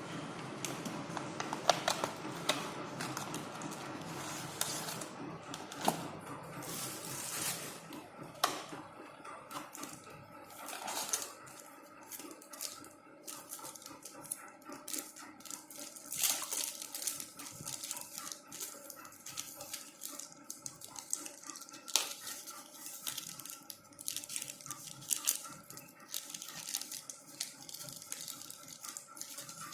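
Packaging being handled: repeated rustling with short clicks and light knocks.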